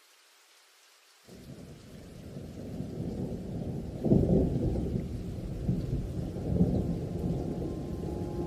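Rolling thunder that swells in after about a second and keeps building, with a sharper, louder clap about four seconds in.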